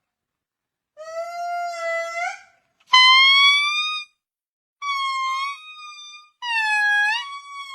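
Four high, held pitched notes, each about a second long, separated by silent gaps; several bend upward at the end.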